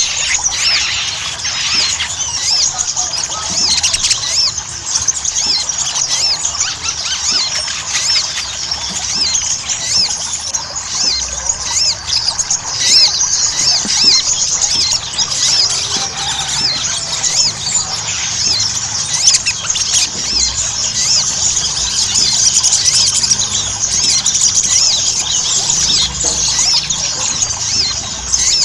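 Little spiderhunter (sogok ontong) singing in full voice: a dense, unbroken stream of rapid, high, sharp chirps.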